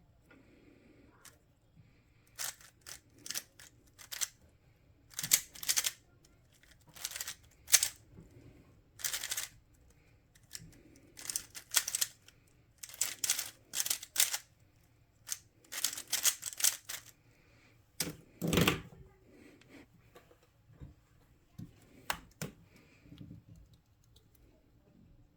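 Plastic puzzle cube being turned by hand in quick bursts of clicking and rattling layer turns, with short pauses between the bursts. One louder, longer clatter about two-thirds of the way through.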